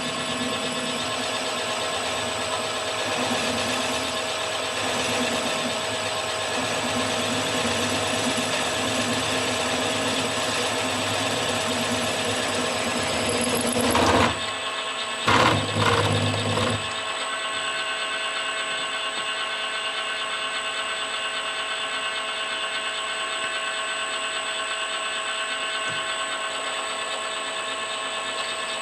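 Milling machine running with its spindle cutting into the metal ram, a steady machine hum with several held tones. A louder, rougher patch about fourteen to seventeen seconds in.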